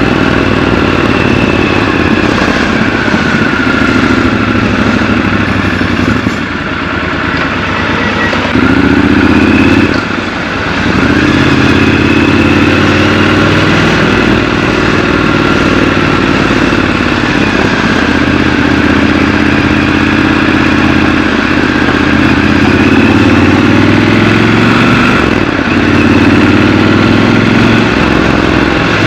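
Triumph Scrambler 1200 XC's 1200 cc parallel-twin engine running under way, its revs rising and falling as it pulls through the gears. The engine note drops off briefly a few times, notably around six and ten seconds in, then picks up again.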